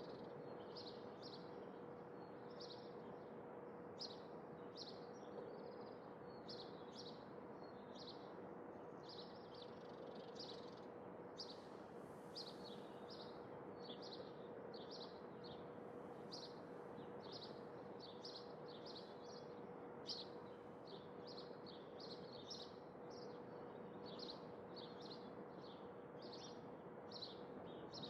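Small birds chirping: short, high chirps repeating about twice a second, over a faint steady outdoor hiss with a low hum.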